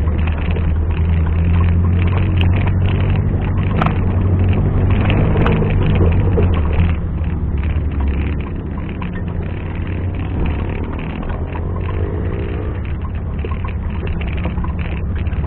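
Off-road 4x4's engine running steadily at low revs, a little louder in the first half and easing off after about seven seconds, with a sharp knock about four seconds in.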